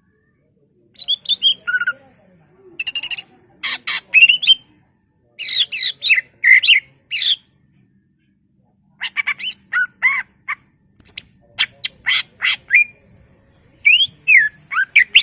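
Green leafbird (cucak ijo) singing in bursts of quick, loud whistled phrases with sliding notes and rapid trills, separated by short pauses. The song is a full-repertoire 'gacor' song that includes mimicked phrases of other birds.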